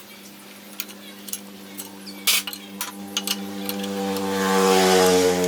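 A small electric power tool's motor running at a steady pitch, growing louder toward the end, with metal clicks and clinks from parts being handled in the first few seconds.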